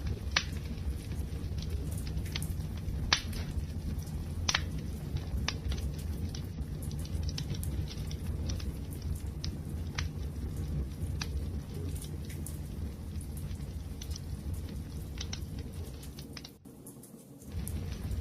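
Wood fire crackling: a steady low rumble with scattered sharp pops and snaps. Near the end the sound briefly drops away for under a second, then comes back.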